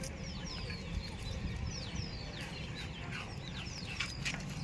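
Birds chirping: a rapid run of short, high, falling chirps, several a second, over a low steady rumble.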